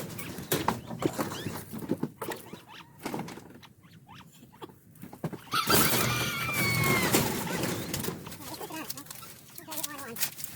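Birds being handled among scattered knocks and rustling. About six seconds in comes a louder, pitched squawk from a chicken or quail.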